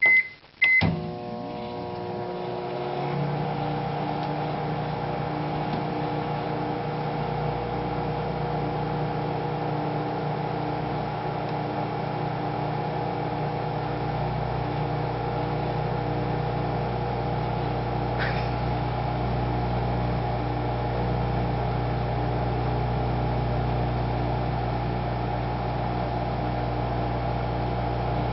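Microwave oven: two short keypad beeps, then the oven starts and runs with a steady hum.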